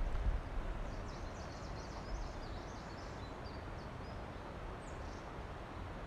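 A small songbird sings a run of quick high chirps over a steady outdoor hiss, with wind rumbling on the microphone at the start.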